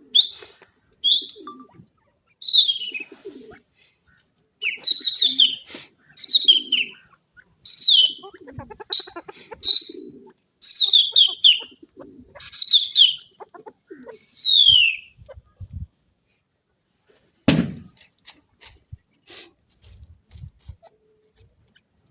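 Grey francolin (teetar) calling: loud phrases of high, quickly falling notes, repeated for about fifteen seconds. The calls stop, and then come a single thump and a few soft clicks and knocks near the end.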